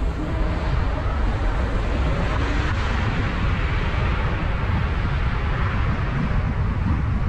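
A car driving along a road: a steady deep rumble of road and wind noise with an even hiss over it.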